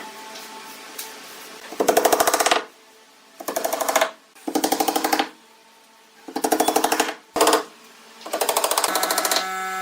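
A power tool running in about six short bursts of rapid hammering, each under a second, with brief pauses between.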